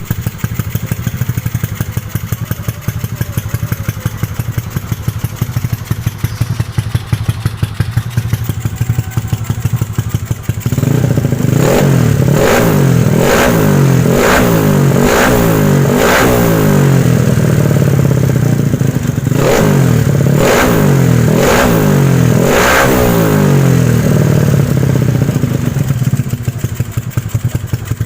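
Race-tuned 150cc Yamaha Mio scooter engine, a single-cylinder four-stroke, running at a fast idle with a rapid, even beat. About ten seconds in it is revved in a string of short throttle blips, roughly one a second, and it settles back toward idle near the end.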